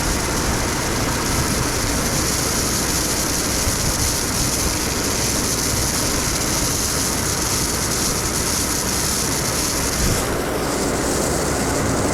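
Stone slinger truck running, its engine and high-speed conveyor belt throwing stone, a steady rushing rattle with a high hiss that eases about ten seconds in.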